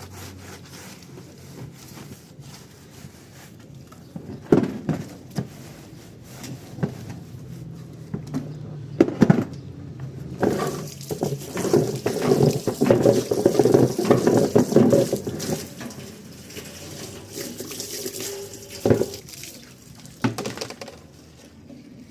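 Water splashing while washing-machine parts are scrubbed with small brushes, busiest in the middle, with a few sharp knocks of parts being handled.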